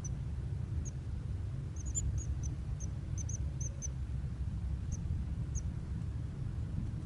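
A bird giving short, high chirps, about a dozen, most of them close together in the middle of the stretch, over a steady low rumble.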